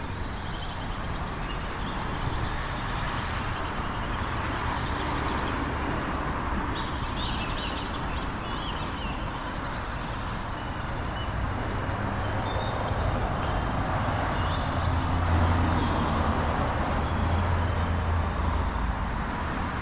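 Road traffic noise from passing cars, a steady rush that swells about three-quarters of the way through as a vehicle comes close. A few bird chirps come through about seven to nine seconds in.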